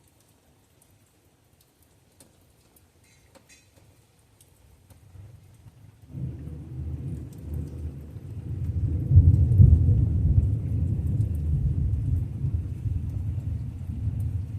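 Thunder after a lightning strike: near quiet with faint ticks of rain at first, then a deep rumble breaks in about six seconds in, builds to its loudest a few seconds later and rolls on steadily.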